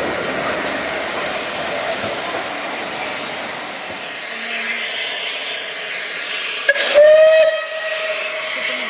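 Steam locomotive letting off a steady hiss of steam, then its whistle sounds about two-thirds of the way in: one long steady note, loudest as it starts.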